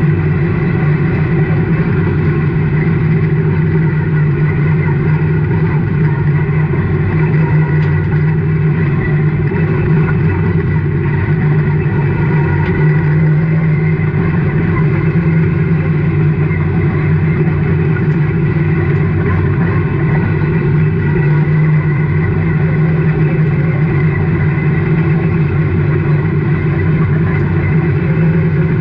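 Race car engine running hard and steady under load, heard from inside the car's stripped, roll-caged cockpit, its pitch holding fairly even with only slight rises and dips in level.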